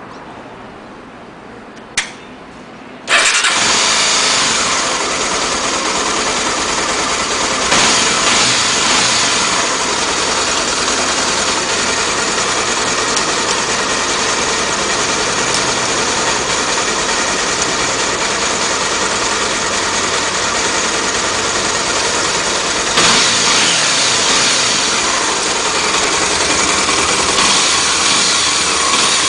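Honda XR 250 Tornado motorcycle's single-cylinder four-stroke engine started: a short click about two seconds in, then the engine catches about three seconds in and runs steadily, with a few brief blips of throttle.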